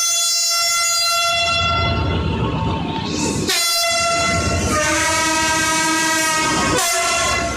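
Diesel locomotive's air horn sounding two long blasts over the low rumble of the train: the first fades out a couple of seconds in, and the second changes to a different chord partway through before cutting off near the end.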